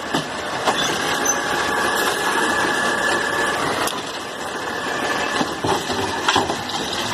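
Garbage truck's engine running steadily, with a faint high whine from about a second in that stops midway, and a few light knocks.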